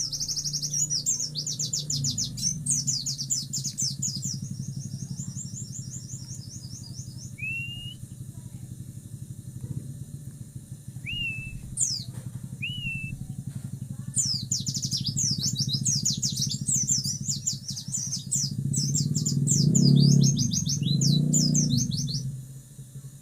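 A pleci (white-eye) singing in long, rapid twittering phrases, with a pause in the middle and a few short rising whistled notes. A low rumble runs underneath and grows louder near the end.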